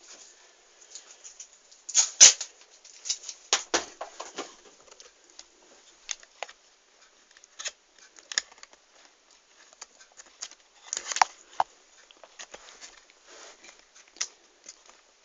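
Scattered small clicks, taps and rustles of objects being handled, with a sharper knock about two seconds in and another cluster of clicks about eleven seconds in. No motor is running.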